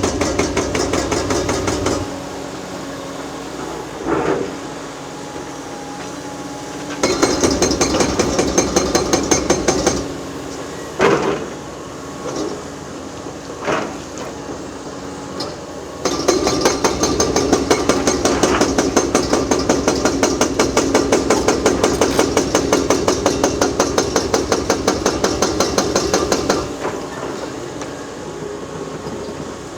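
Excavator-mounted hydraulic breaker hammering concrete in rapid, even runs of blows, stopping and starting three times, with a few single knocks and clatters in the pauses.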